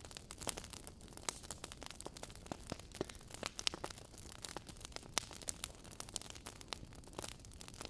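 Wood logs burning in a fireplace, crackling and popping irregularly over a low steady hiss of the flames.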